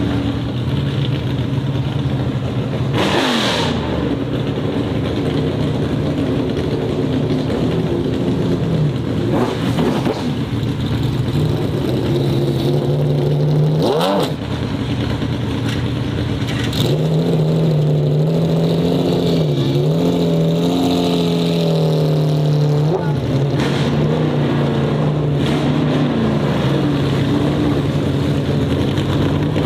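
Performance and racing car engines running hard, several cars in turn: one passes close at speed about three seconds in and another about fourteen seconds in, then an engine is held at high revs with a wavering pitch for several seconds.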